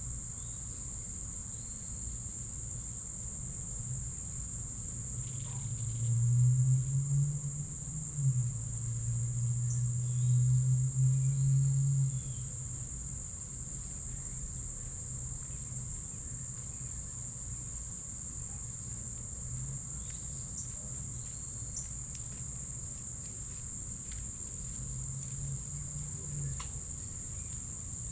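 Steady high-pitched trilling of insects, typical of a cricket chorus, throughout. A low hum swells loud from about six to twelve seconds in and returns briefly near the end, with a few faint chirps.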